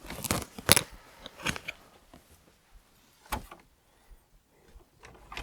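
Handling noises in a small room: a quick cluster of sharp clicks and knocks in the first second, then single sharp knocks about a second and a half in, about three seconds in and near the end.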